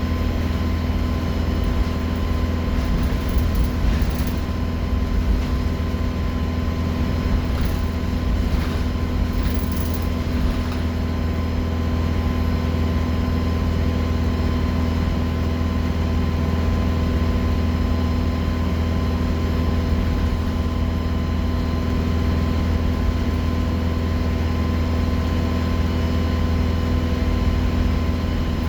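Alexander Dennis Enviro 200 bus running steadily, with a low diesel drone and a constant high turbocharger whistle over it. A few light rattles come between about 3 and 10 seconds in.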